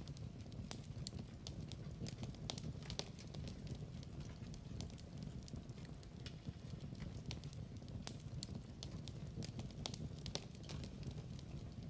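Wood fire burning in a fireplace, crackling and popping at random with a low steady rumble of the flames beneath.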